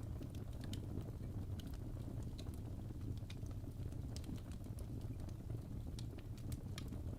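Wood fire burning in a fireplace: a steady low rumble with irregular sharp pops and crackles from the burning logs.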